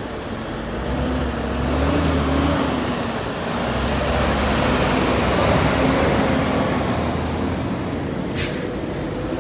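Heavy truck engine running with road traffic noise, its pitch rising and falling slightly, with a short hiss about eight seconds in.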